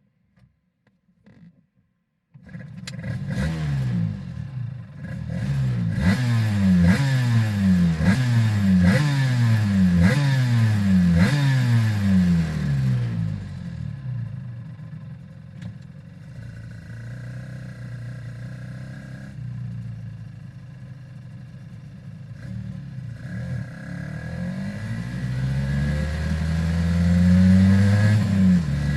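Aprilia RS 250's 249 cc two-stroke V-twin with Arrow exhausts starting up about two and a half seconds in, then blipped about six times, roughly once a second. It settles to a steady idle, and the revs climb again near the end.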